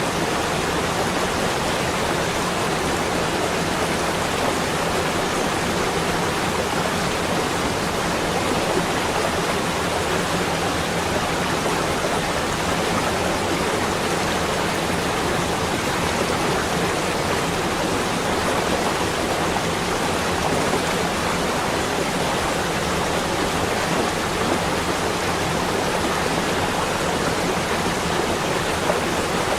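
Steady, even rushing noise that holds at one level, with no separate drops, clicks or tones.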